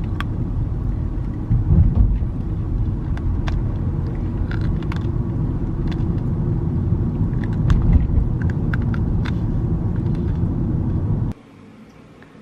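Steady low rumble of a moving vehicle heard from inside, with scattered light clicks and rattles; it cuts off abruptly near the end.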